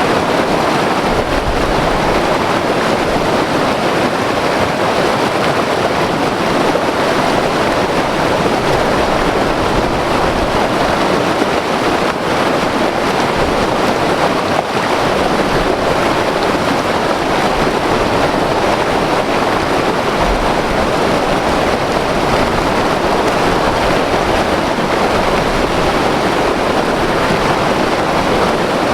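White water river rushing over rocks, a steady loud rush of water. Low gusty rumble from wind on the microphone.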